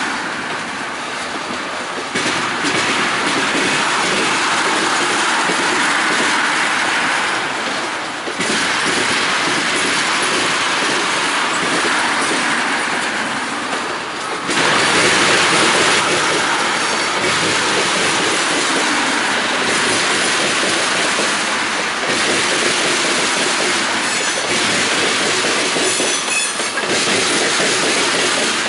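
Freight train of tank cars rolling past close by: a steady rumble and rattle of wheels on rail, growing louder about halfway through.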